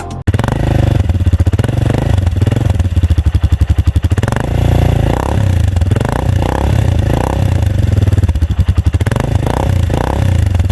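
Motorcycle engine running loud through an Akrapovic aftermarket exhaust with its dB killer fitted: a rapid, steady exhaust pulse, blipped up on the throttle a few times around the middle and again near the end.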